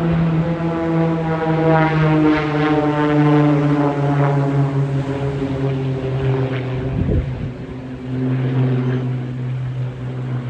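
Propeller airplane's engine flying past during an airshow display, a loud steady drone whose pitch slowly drops as it goes by.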